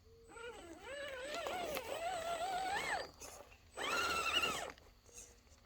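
A cat meowing: one long wavering meow that rises in pitch at its end, then a shorter meow shortly after.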